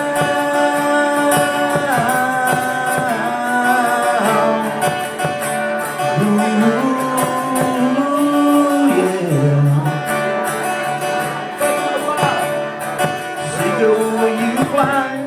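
Live song: guitar playing, with a voice singing long held notes that glide between pitches.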